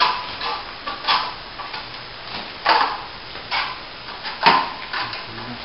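Steel plastering trowel spreading wet top coat plaster over a plasterboard joint: a series of uneven scraping strokes, one or two a second, some sharper and louder than others.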